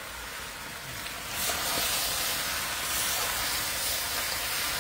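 Food frying in hot oil in a pot, a steady sizzling hiss that gets a little louder about a second in.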